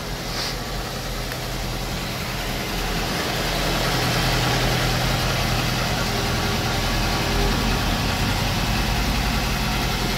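Tofaş Doğan's fuel-injected four-cylinder petrol engine idling steadily, soon after its first start in two and a half months; it grows somewhat louder over the first few seconds, then holds even.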